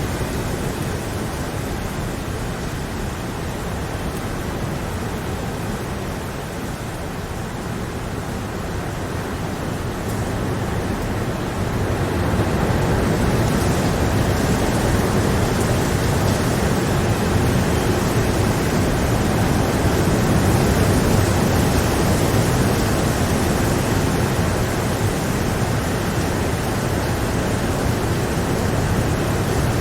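Steady rain falling as a dense, even hiss, growing heavier and louder about twelve seconds in.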